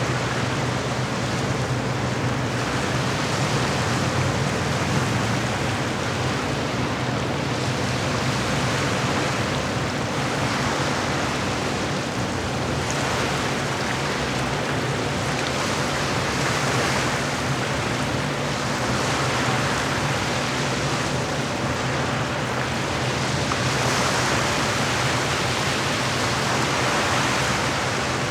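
Small lake waves washing against the shore, swelling and easing every few seconds, over a steady low hum.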